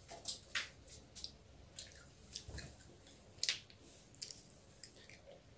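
Fuchka (pani puri) being eaten: faint, scattered crunches and wet squishes as the crisp shells are bitten and chewed, the loudest crunch about three and a half seconds in.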